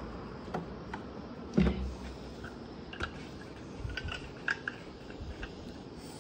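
Scattered light clicks and taps of tools and small metal parts being handled, with one louder knock about one and a half seconds in, over a steady low background hum.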